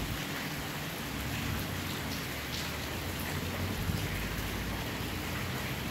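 Steady rain falling, with a few scattered drop ticks.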